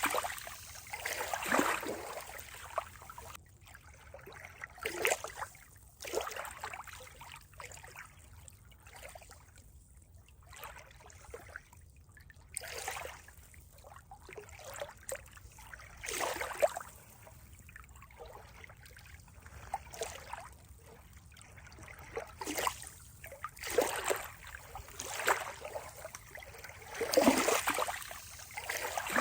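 Water lapping and trickling in irregular small splashes, a second or a few apart, with quieter stretches between.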